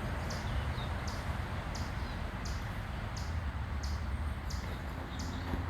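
A small animal's short, high chip call, repeated evenly about every 0.7 s, with a couple of faint falling bird notes and a steady low background rumble.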